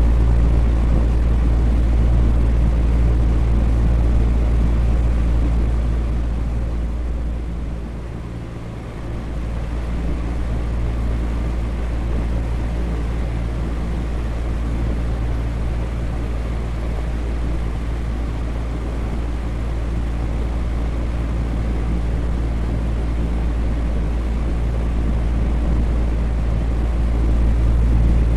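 Electric fan running steadily: a whoosh of moving air over a low motor hum. The level dips briefly about eight seconds in and then comes back.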